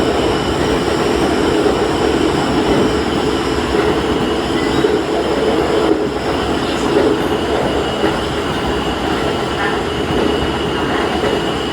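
Diesel railcar running along the line, heard from the cab: a steady mix of engine and wheels on rail, with no sharp changes.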